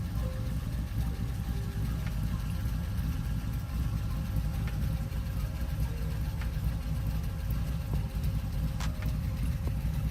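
A 454 Chevrolet big-block V8 in a 1973 International Scout pickup idling steadily, with a deep, even rumble.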